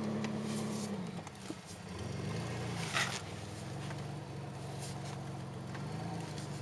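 1991 Ford Ranger pickup engine running while driving. The revs fall about a second in, then climb again, with a single sharp clunk about three seconds in, before settling to a steady pull.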